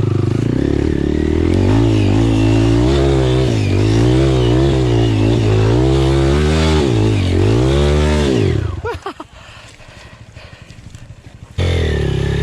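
Enduro motorcycle engine revving up and down repeatedly. About eight and a half seconds in, the revs fall away and the engine drops to a low putter. Shortly before the end, a loud engine note cuts back in suddenly.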